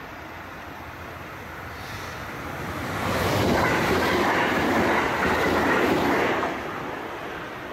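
Local passenger train passing close by on the rails. It grows louder for a couple of seconds, runs loud with wheel and rail clatter for about three seconds, then falls away sharply as it goes by.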